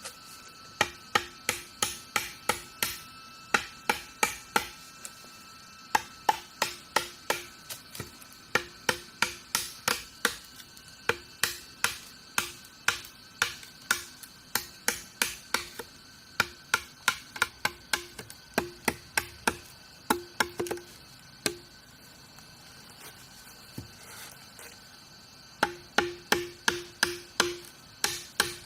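Rapid sharp strikes of a hand tool, about two or three a second, in runs with a brief pause about two-thirds through. A steady insect drone runs underneath.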